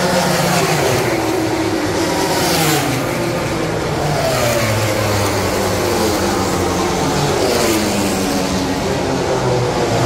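MotoGP race bikes' four-cylinder engines running at high revs as they pass. Their notes sweep down and up in pitch as one bike follows another.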